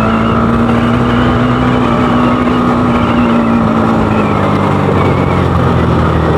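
Single-cylinder engine of a Bajaj Pulsar AS200 running through an aftermarket KTM Duke 250 exhaust while riding at steady, moderate revs. The revs ease off slightly over the last couple of seconds.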